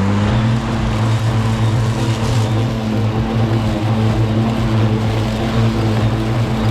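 Parkside PPRMA 40-Li A1 cordless lawn mower running steadily at full speed, its electric motor and blade giving a steady hum under a whirring hiss.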